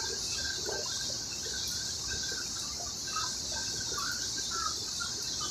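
A steady high-pitched chorus of insects, likely crickets or cicadas, with scattered short bird chirps over it.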